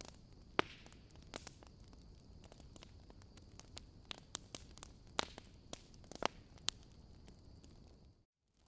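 Wood fire crackling, with irregular sharp pops and snaps from the burning logs over a soft steady hiss. A faint high steady tone runs underneath, and everything drops out briefly near the end.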